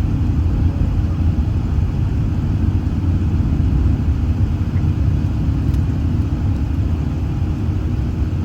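Steady low rumble of an Airbus A380 in flight, heard from inside the economy cabin: engine and airflow noise.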